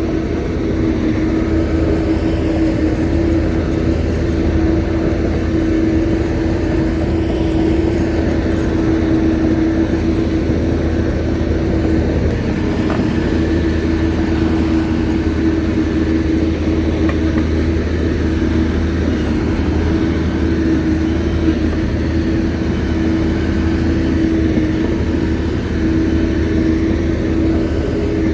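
Shantui crawler bulldozer's diesel engine running steadily, a constant whine over a low drone.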